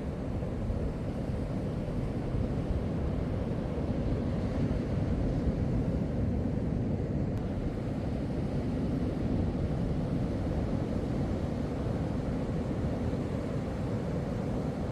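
Wind buffeting the microphone in a steady low rumble, with beach surf behind it.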